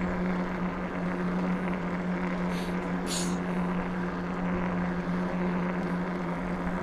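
E-bike motor humming at a steady pitch while riding, over a rush of wind and tyre noise, with two brief high-pitched chirps about midway.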